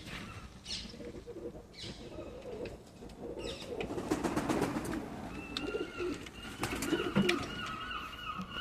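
Indian fantail pigeon cooing, a low wavering coo through the middle of the stretch, with a few sharp clicks. From about halfway on, a higher-pitched wavering bird call sounds alongside it.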